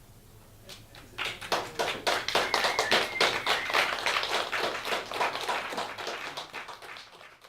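Audience applauding in a small club, starting about a second in as the music ends, and dying away near the end.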